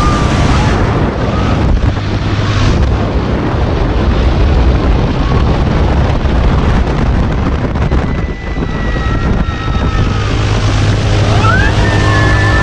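Wind rushing and buffeting over the microphone as the Mondial Turbine thrill ride spins, over a steady low hum from the ride.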